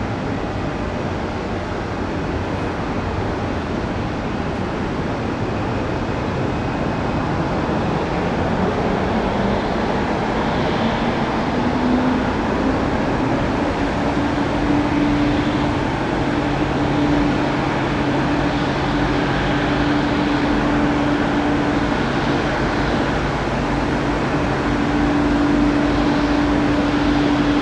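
Jet engine noise from a Gulfstream G-IV's two Rolls-Royce Tay turbofans: a continuous roar that slowly grows louder, with a whine that climbs in pitch about a third of the way in and then holds steady.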